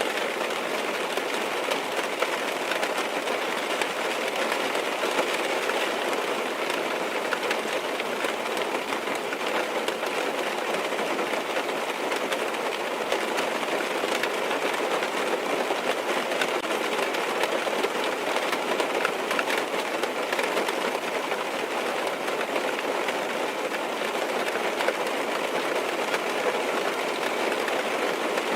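Steady rain tapping on a car's windows and roof, heard from inside the cabin as an even wash with many small drop hits.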